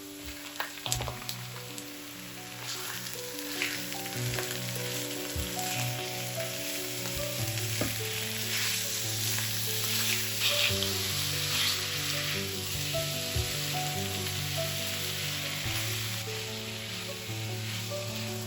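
Food sizzling as it fries in a pan, with a few clicks near the start, over background music with held notes.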